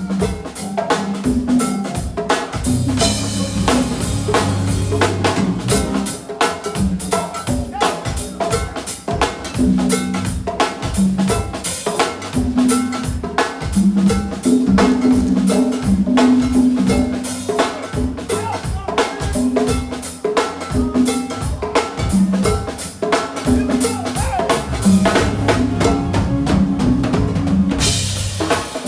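Live go-go band playing an instrumental groove: drum kit and percussion keeping a steady pocket beat over a bass line.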